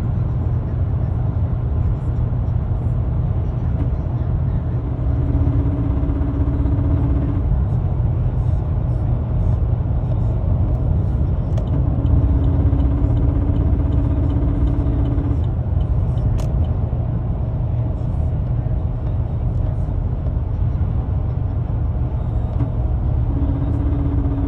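2018 Chevrolet Silverado running on the move, a steady low rumble. A steady hum comes in and drops out three times: about five seconds in, again around twelve seconds for a few seconds, and near the end. The owner ties this noise from under the hood to the Active Fuel Management switching the engine into four-cylinder (V4) mode.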